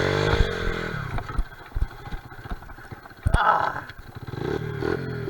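Honda XR70R pit bike's small four-stroke single-cylinder engine revving, then dropping off the throttle about a second in, with a few knocks and clatter. It revs up again near the end.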